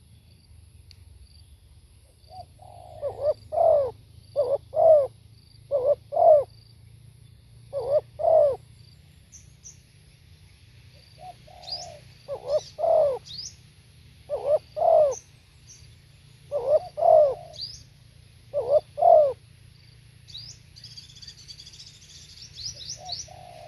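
Spotted dove cooing: a run of repeated short coo phrases in two bouts, one starting a couple of seconds in and a second from about halfway to near the end. Other small birds chirp faintly and high in the background, most busily near the end.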